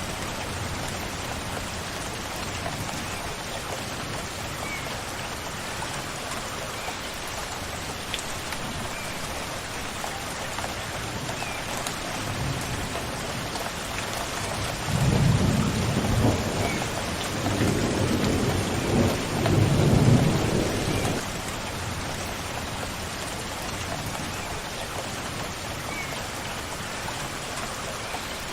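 Steady rain falling, with a low rumble of thunder that swells about halfway through and lasts some six seconds. A bird gives a short faint chirp every few seconds.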